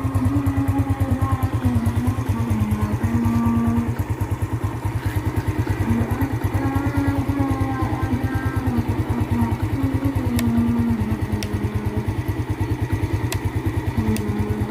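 Yamaha Jupiter Z motorcycle's single-cylinder four-stroke engine idling steadily, with music playing over it.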